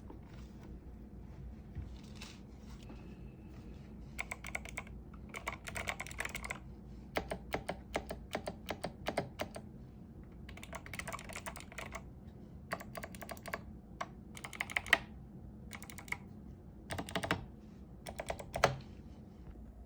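Typing on an 8BitDo retro mechanical keyboard: bursts of rapid key clicks with short pauses between them, starting about four seconds in, with a few heavier single strokes near the middle and the end.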